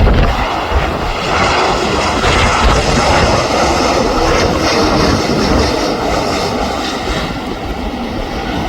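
Boeing 737-800 jet airliner with its CFM56-7B turbofans running as it passes, a steady roar with a faint whine on top. Gusts of wind buffet the microphone in the first second or so.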